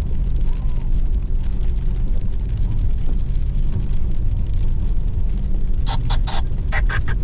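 Steady low rumble of a Hummer H2 driving slowly along a dirt trail, heard inside the cabin. About six seconds in, a quick run of short, high squeaks begins, several a second in little clusters.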